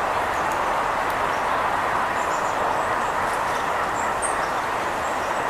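A steady rushing background noise at an even level, like distant traffic, with a few faint high bird chirps over it.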